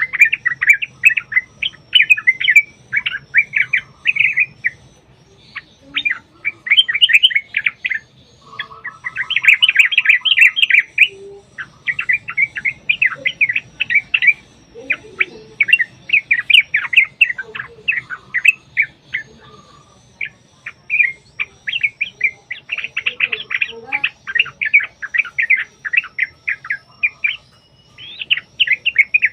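Yellow-vented bulbuls (trucukan) chattering in long, rapid runs of bubbly notes with short pauses between phrases: the agitated calling of birds fighting.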